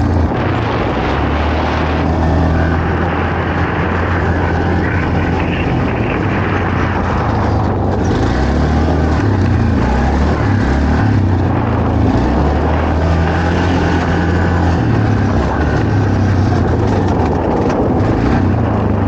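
Quad bike (ATV) engine running under way off-road, its pitch stepping up and down several times as the throttle changes, under a steady rushing noise.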